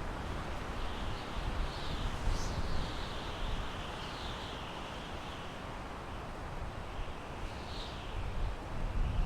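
Wind blowing through pine trees: a steady rushing hiss with gusts of low rumble, swelling about two seconds in and again near the end.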